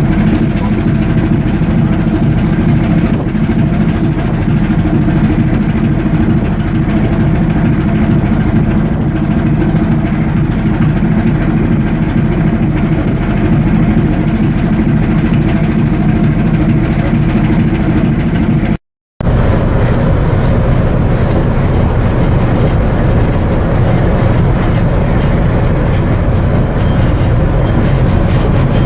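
Cargo ship's diesel machinery running steadily and loudly, a constant rumble with faint steady tones. It breaks off suddenly for a split second about two-thirds of the way through, then carries on with a harsher, hissier sound.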